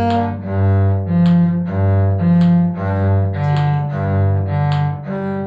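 Bowed string instrument playing a B-flat major arpeggio in even eighth notes, with the open G string sounded between each arpeggio note, so the bow crosses strings on every note.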